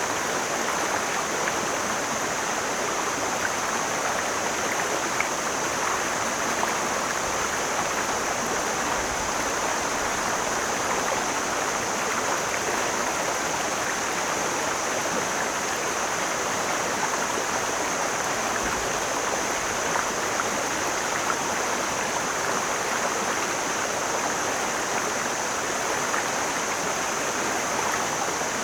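Mountain stream flowing: a steady, unbroken rush of water, with a thin, steady high hiss above it.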